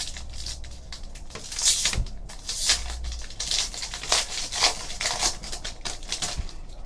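A trading card pack wrapper being torn open and crinkled in the hands, a run of irregular rustles and crackles.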